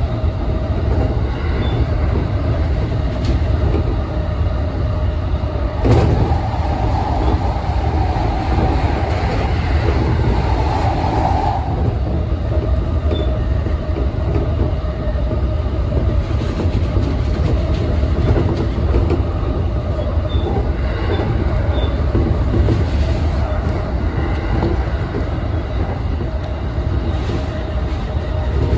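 Keihin-Tohoku line electric commuter train running along the track, heard from the driver's cab: a steady rumble of wheels on rail with a faint hum, and a single sharp knock about six seconds in.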